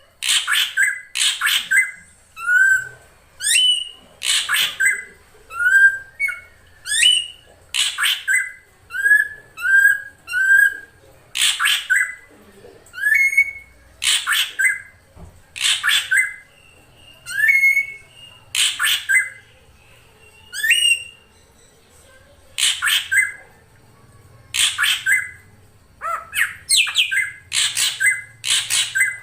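Female drongo (srigunting) calling: loud harsh rasping notes alternating with short rising whistled notes, repeated about once a second.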